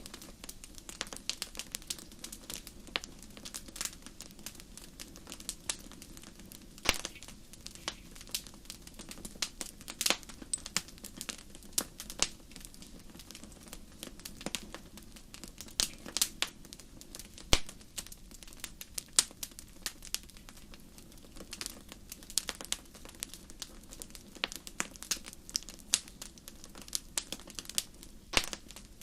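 Wood fire crackling in a fireplace: irregular sharp pops and snaps, several a second, over a low steady rumble of the flames, with a few louder pops about 7, 17 and 28 seconds in.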